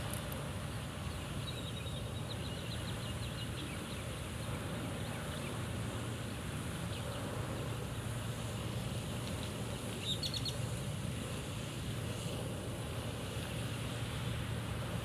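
Steady wind rumble on an open pond bank, with a quick run of high chirps about two seconds in and another short burst of chirps about ten seconds in.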